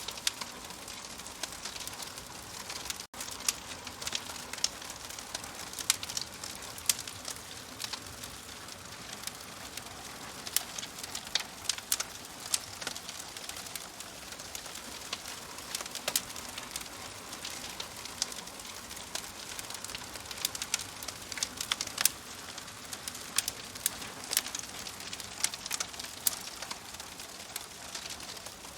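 Fireplace fire crackling: a steady soft hiss with frequent irregular sharp pops and snaps. A split-second dropout about three seconds in.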